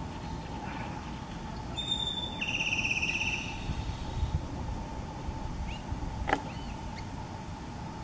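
Outdoor ambience with a steady low rumble, a short rapid bird trill about two and a half seconds in, and a few faint chirps with a single sharp tap near six seconds.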